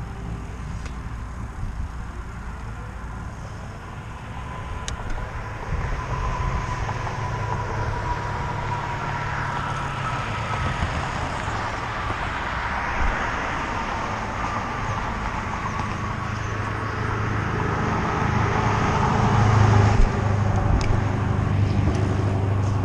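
Steady road and traffic noise with a low rumble, growing louder toward the end.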